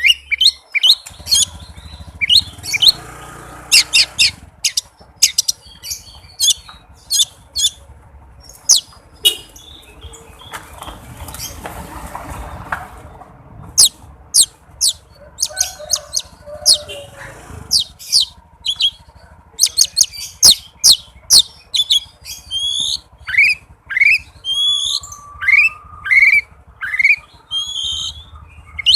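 Oriental magpie-robin (kacer) singing a fast, dense song of sharp chirps and clicks, with a run of quick upward-sweeping whistled notes near the end. A rustling noise sits under the song twice.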